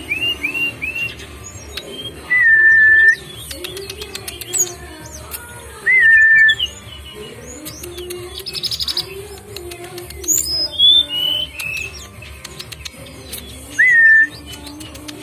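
Several birds calling together: three times a loud whistle that hooks upward and then holds level for under a second, amid many short, quick chirps and trills. A low wavering cooing runs underneath throughout.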